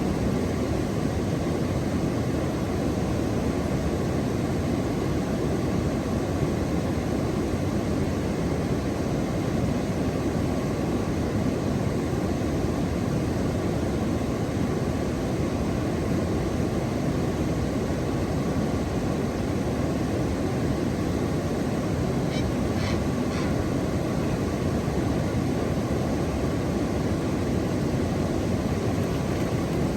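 Steady low rushing noise at an even level, with a few faint, short high chirps a little past twenty seconds in.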